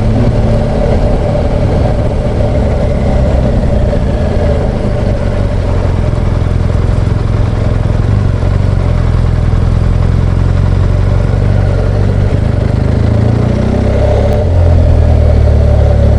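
BMW R1200GS Adventure's boxer-twin engine running steadily while the motorcycle is ridden, growing louder with a change in engine note about fourteen seconds in.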